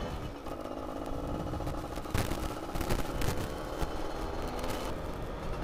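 Yamaha F1ZR's two-stroke single-cylinder engine running steadily as the moped rides along, with wind and road rumble.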